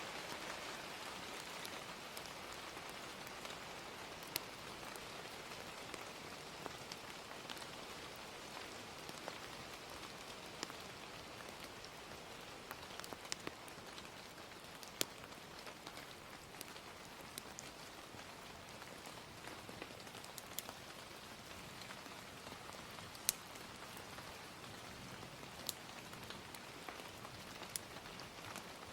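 Steady gentle rain with a crackling fire: a soft, even hiss of rain broken by scattered sharp pops, a few of them louder.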